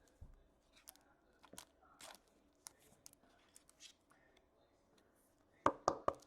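Trading cards and their packaging being handled: light rustles and small clicks, then a short run of louder crunchy crinkles near the end.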